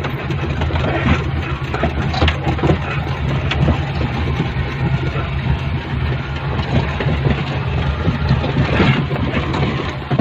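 A vehicle engine running steadily, with occasional light knocks over the hum.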